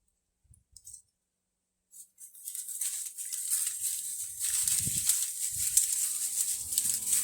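Dry leaves, twigs and prickly scrub crackling and rustling underfoot and against clothing, starting about two seconds in. Acoustic guitar music comes in near the end.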